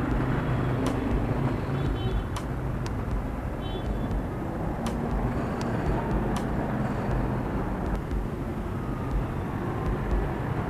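Steady low rumble of motor vehicles, with a few faint scattered clicks.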